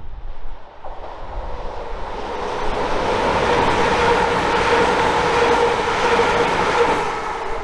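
Diesel multiple-unit passenger train running through a station at speed. A rushing rumble of wheels and engines builds from about a second in and is loudest through the middle, with a steady whine over it, then eases off near the end as the train goes by.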